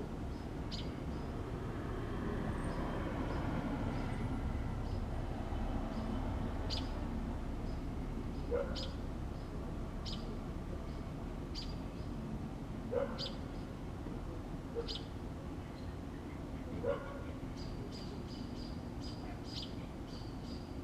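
Small birds chirping in short, high peeps every second or two, quickening near the end, with a dog giving a few brief whimpering yips between them, over a steady low background rumble.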